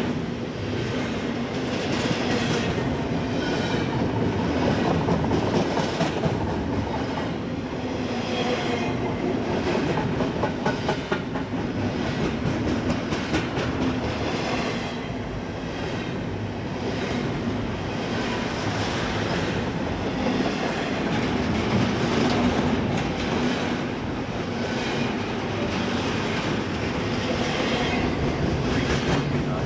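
Freight train cars rolling steadily past, their wheels clacking over the rail joints in a continuous rumble.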